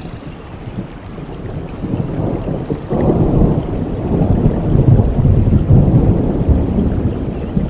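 Rain falling steadily with a peal of thunder: a low rumble builds about two seconds in, swells sharply at about three seconds and rolls on loudly through the rest.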